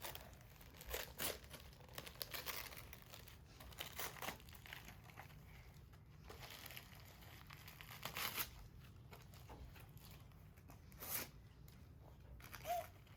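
Gift wrapping and packaging being torn open and crumpled by hand, in irregular rustles and rips with a few louder tears.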